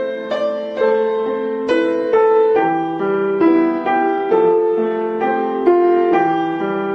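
Piano playing a slow melody over chords with no singing, each note starting sharply and fading.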